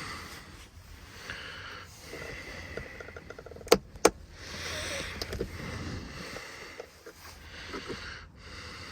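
A hand tool prying and scraping at plastic trim held on by clips, with two sharp clicks about four seconds in as the tool and clips snap.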